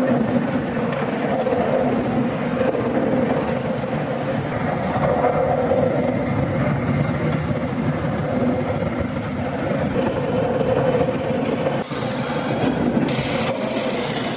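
Steady, loud machinery noise with a constant droning hum. About twelve seconds in, a high hiss joins it and grows stronger a second later.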